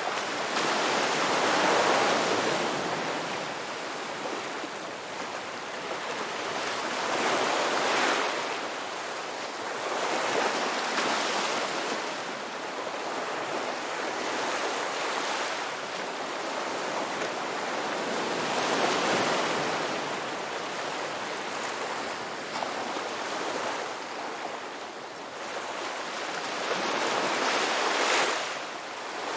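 Ocean waves breaking and washing onto a beach, each surge rising and falling every several seconds, with louder breaks about 2, 8, 11, 19 and 28 seconds in.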